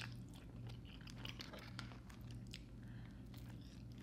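Close-miked chewing of pizza topped with creamy fettuccine Alfredo: many soft, wet mouth smacks and clicks, with a steady low hum beneath.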